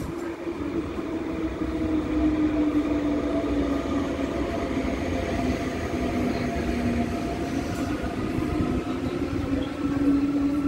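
Train running on the line with a low rumble and a humming tone that slowly dips in pitch, then rises again near the end; it grows louder about two seconds in.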